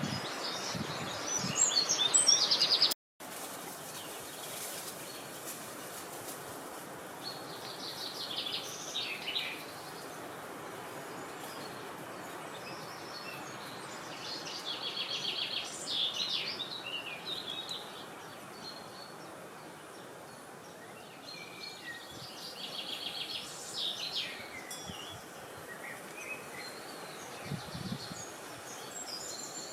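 Wild birds singing short phrases of rapid trilled notes every several seconds over a steady outdoor hiss of wind. About three seconds in, the sound cuts to silence for an instant.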